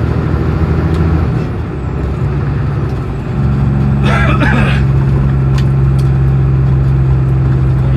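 Road vehicle's engine running steadily, its note changing twice: about a second in and again about three and a half seconds in, after which it runs louder.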